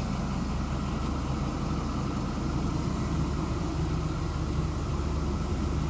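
Ford 6.0-liter diesel V8 in a Ford E-450 minibus idling steadily, heard from inside the bus, with an even low hum and a steady hiss over it. It runs smoothly, a sign the engine is in good order.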